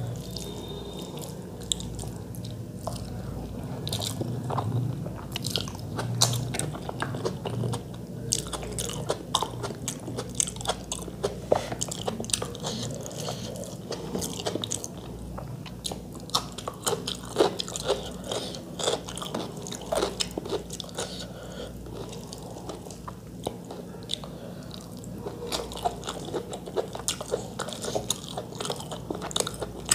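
Close-miked eating sounds: chewing with many short wet clicks and crackles, and the squelch of fingers mixing rice and chicken curry on a metal plate. A low steady hum runs underneath.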